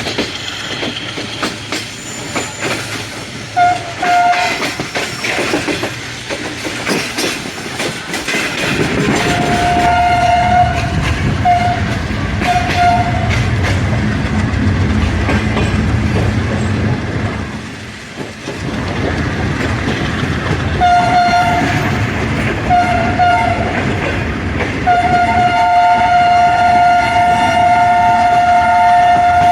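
Moving passenger train hauled by an AGE30 Blue Tiger diesel locomotive: steady running rumble with wheels clicking over rail joints. A locomotive horn sounds several short and longer blasts, then a long blast held through the last few seconds.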